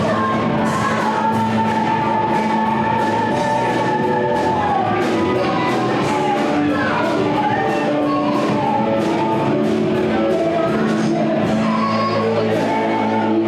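Rock band playing, with regular drum and cymbal hits under a singing voice holding long notes.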